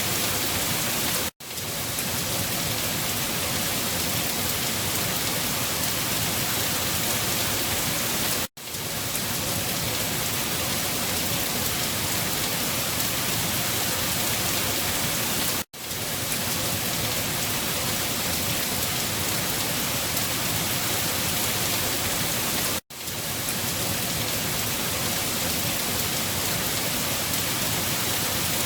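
Steady, dense rain falling on a surface, a looped recording that cuts out to near silence for a moment about every seven seconds before the rain returns.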